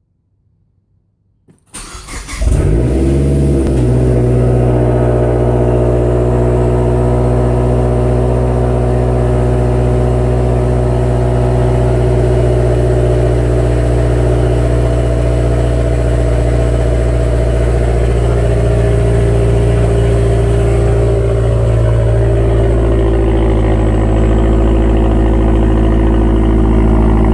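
Turbocharged car engine cranking and catching about two seconds in, then idling steadily through a catless turboback exhaust with no resonators. The idle settles slightly lower about twenty seconds in.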